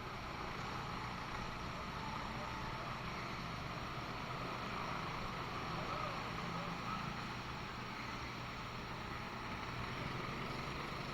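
Steady running noise of race vehicles lapping a track, even and unbroken, with faint voices in the background.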